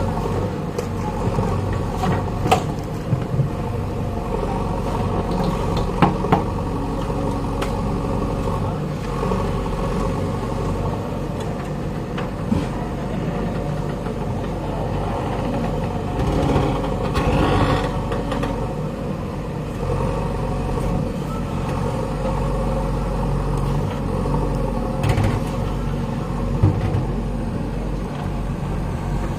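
JCB backhoe loader diesel engine running steadily, with a few sharp knocks and clanks.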